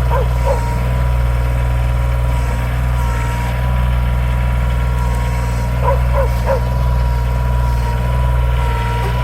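Engine running steadily at idle close by. A dog gives a few short whines right at the start and again around six seconds in.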